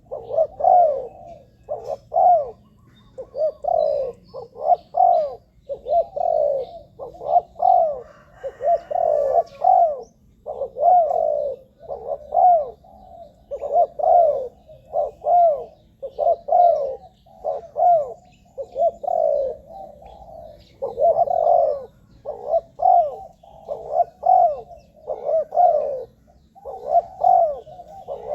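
Spotted dove cooing, a continuous run of short repeated coos with only brief gaps: the call of a decoy bird used to lure wild doves.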